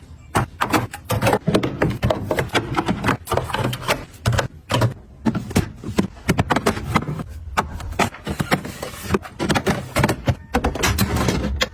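Many quick, irregular clicks, taps and knocks of hard items being handled and set down, close up.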